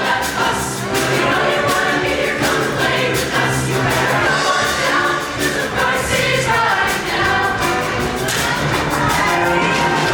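Show choir singing held chords in harmony over band accompaniment with a steady beat.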